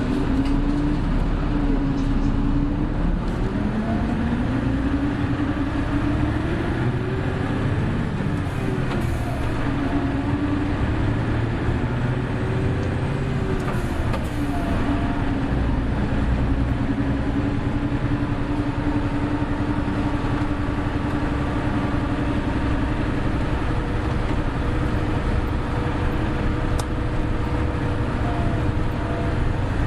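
Hino Blue Ribbon City Hybrid bus (BJG-HU8JLFP) driving, heard from inside the cabin: its drivetrain runs with a steady hum over road rumble. The pitch rises and falls several times in the first half as the bus speeds up and shifts, then holds steady.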